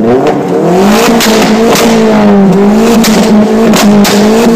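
Opel Astra OPC's turbocharged four-cylinder engine revved hard through a 3-inch straight-through exhaust, held at high revs with the pitch wavering up and down. Sharp pops and cracks from the exhaust break in repeatedly, backfires of the kind that throw flames.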